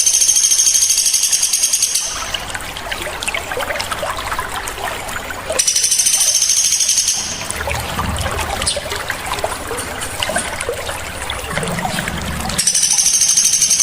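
Songbirds singing: a loud, high, rapid trill lasting about a second and a half comes three times, about six seconds apart, with scattered short chirps between, over a steady hiss like trickling water.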